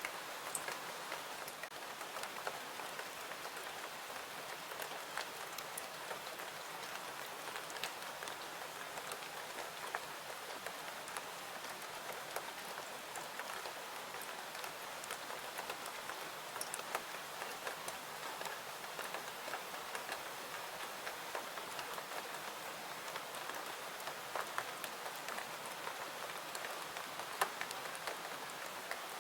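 Steady rain falling, an even hiss dotted with scattered sharp ticks and crackles throughout.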